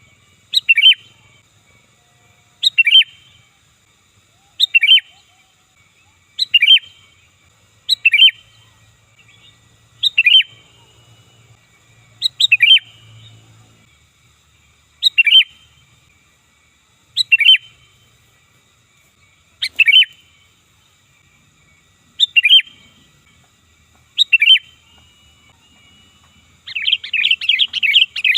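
Sooty-headed bulbul calling loudly: a short, sharp phrase about every two seconds, about thirteen times, then a rapid run of chattering notes near the end.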